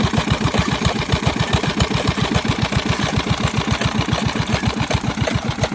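Single-cylinder Peter diesel engine running steadily, each firing stroke a low, even beat at about eight a second, as it drives a toka chaff cutter.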